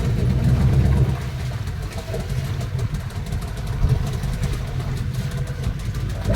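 Glass-bottom boat's engine running steadily at low speed, a low drone.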